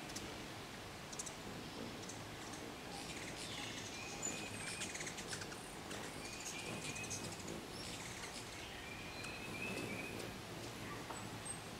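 Small birds calling: short trills repeated every two to three seconds, with faint high chip notes, over a steady low background hiss.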